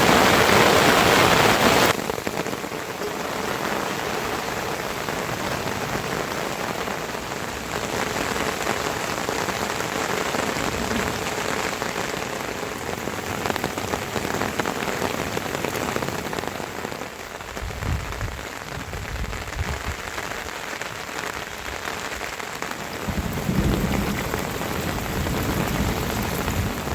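Steady rain falling, louder for the first two seconds before dropping off suddenly to a lighter, even patter. Low rumbles come twice, around two-thirds of the way through and near the end.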